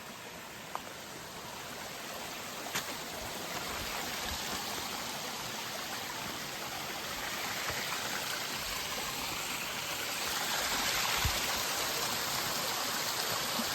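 Rushing water of a river, a steady rush that grows gradually louder. Two faint clicks sound within the first three seconds.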